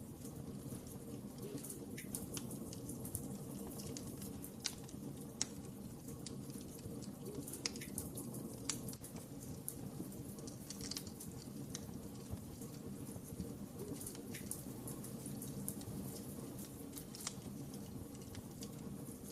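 Wood fire burning with a steady low rush and irregular crackles and pops, a few of them sharper, about five and eight seconds in.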